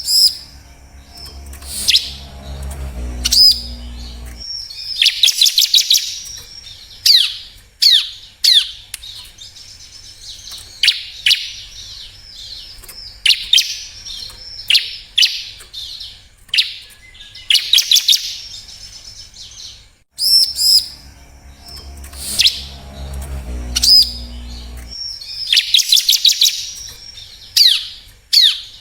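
Bar-winged prinia (ciblek) singing: sharp, high, falling chirps mixed with quick rattling trills, repeated in bouts. A low hum sits under the song for the first few seconds and comes back about twenty seconds in, when the same run of song starts over as a loop.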